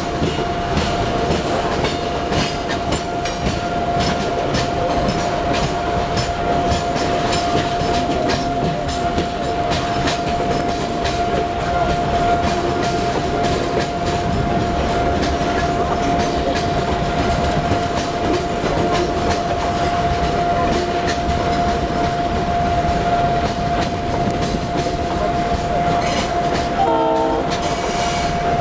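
Freight train rolling past, its wheels clattering over the rail joints under a steady rumble, with a steady high tone throughout. A short horn blast sounds near the end.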